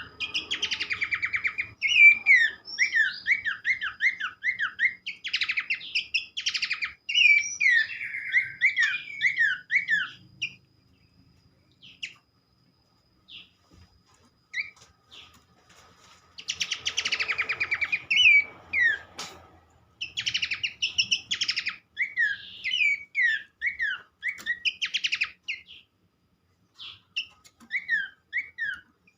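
Horsfield's babbler (pelanduk semak) song used as a training recording: quick runs of whistled, falling notes mixed with dry chattering rattles, in bursts. There is a pause of a few seconds after about ten seconds and a short one near the end.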